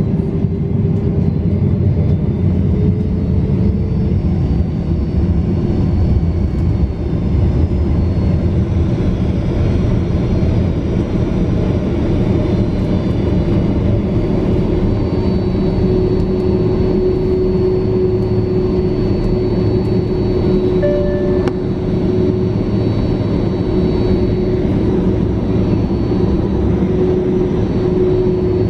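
Boeing 767-400ER's jet engines running, heard from inside the passenger cabin as a loud, steady rumble with a held whine. The whine rises slightly in pitch over the first few seconds.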